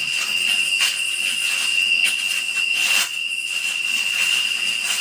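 A steady high-pitched whine, one unchanging tone, over a constant hiss.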